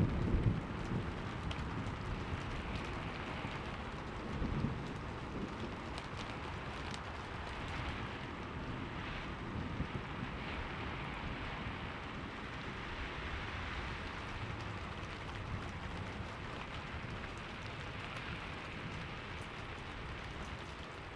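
Steady rainfall hissing, with the tail of a thunderclap dying away at the start and a short low rumble of thunder about four seconds in.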